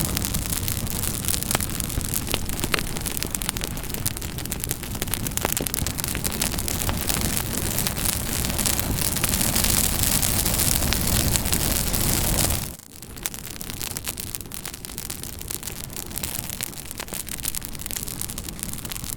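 Campfire crackling, with a dense hiss and frequent sharp pops. About thirteen seconds in, the sound dips sharply for a moment and comes back quieter.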